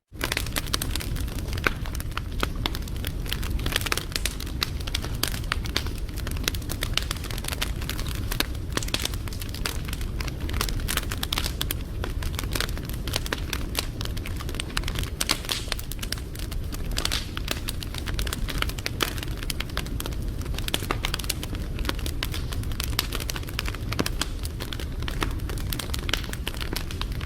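Wood fire crackling and popping steadily, with many small sharp snaps over a low, even rumble of the flames.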